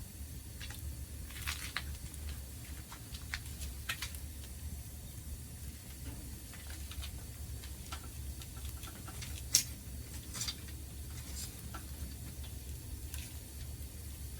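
Wood fire crackling in a Picogrill fire pit, with irregular small snaps and one loud pop about nine and a half seconds in, over a steady low rumble.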